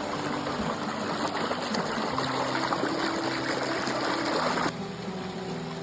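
Stream water running steadily, a rushing hiss that cuts off abruptly about four and a half seconds in; soft background music with held notes plays underneath.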